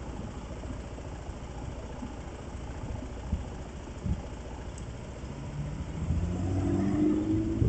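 A vehicle engine running over a steady low road rumble, with a few dull knocks. Near the end an engine hum grows louder and rises slightly in pitch.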